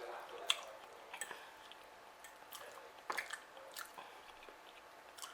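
A person chewing food close to the microphone, with scattered soft wet mouth clicks and smacks.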